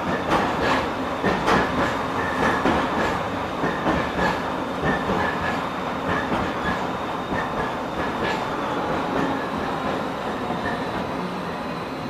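LM-99AVN tram running on its route, its wheels knocking fairly softly over the rail joints in irregular clicks over a steady rolling rumble. The knocks thin out and the running noise eases in the last few seconds.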